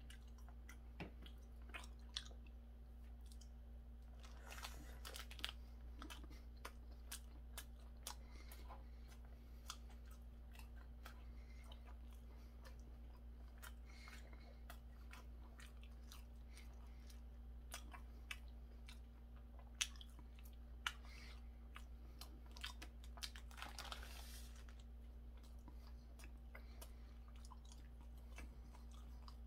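A person chewing a mouthful of hamburger close to the microphone, with many small wet mouth clicks over a faint steady low hum. There are two brief rushy sounds, about four seconds in and near the end.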